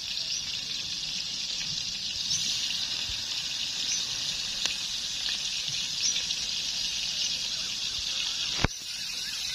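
Chapli kababs sizzling steadily as they shallow-fry in hot oil in a wide iron karahi, with a few faint pops of spattering oil. A sharp click comes near the end.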